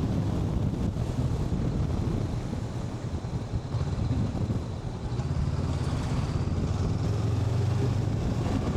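Honda NX500 motorcycle's parallel-twin engine running under way, with wind and road noise; the engine note eases off around three seconds in and picks up again from about five seconds.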